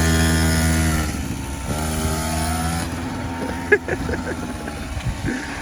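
Small 50cc quad bike engine running in two spells of about a second each, then fading away. A single sharp click comes a little before the fourth second.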